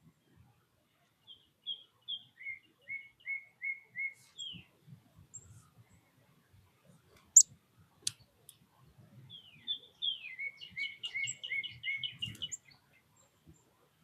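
A songbird singing two phrases of repeated clear whistled notes. The first phrase steps down in pitch. The second, near the end, is a faster run of paired notes. About seven seconds in there is one sharp, loud click and a smaller one just after, over faint low scuffling.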